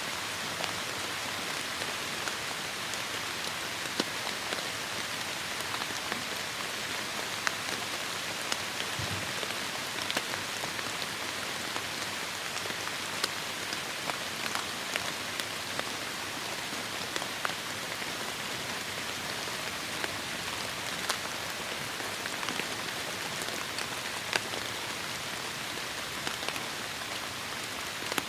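Heavy rain falling steadily, a dense even hiss with many sharp, close drop hits popping out of it.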